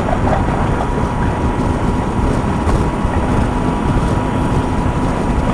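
Steady wind rush and engine and road noise at a helmet microphone on a motorcycle riding at motorway speed, mostly a low rumble, with a thin steady whine throughout.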